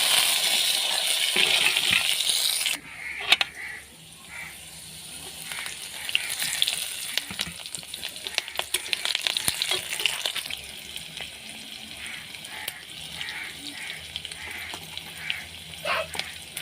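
Food frying in hot oil in a pan: a loud sizzling hiss for the first few seconds that drops off suddenly, then steadier, quieter sizzling with crackles and the scrapes of a spoon stirring.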